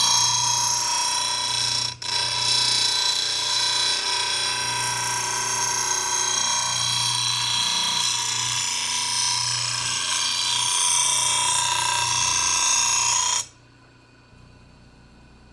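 Angle grinder grinding the steel edge of a lawnmower blade, a loud high-pitched grinding with a steady tone, broken for a moment about two seconds in. It cuts off suddenly near the end.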